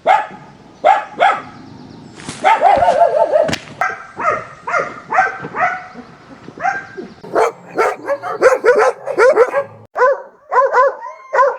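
Puppies barking and yipping in play: a string of short, high barks, with one longer drawn-out call about two and a half seconds in, and the yips coming quicker, about three a second, near the end.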